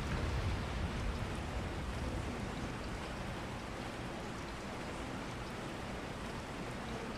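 Steady rain falling, with a low rumble near the start that fades within the first second or so.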